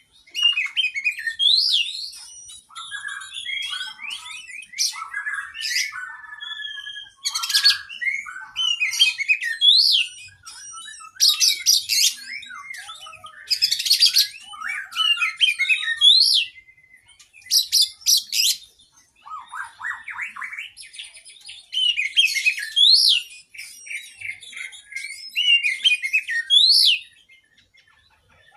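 Oriental magpie-robin (kacer) singing a long, varied song full of mimicked phrases: quick chattering runs, sharp rising whistles repeated every few seconds, and bursts of high rapid notes with brief pauses between phrases.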